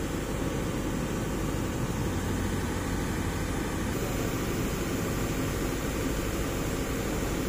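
Mitsubishi Fuso Canter's 4P10 four-cylinder turbodiesel running steadily, with a low, even engine noise.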